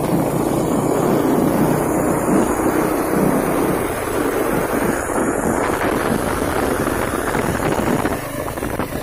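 Truck engine running on the road, with wind buffeting the microphone.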